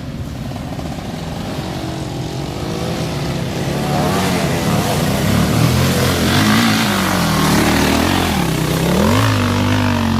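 Several motocross motorcycle engines revving, their pitch rising and falling as the bikes accelerate and ease off. The sound gets louder about four seconds in.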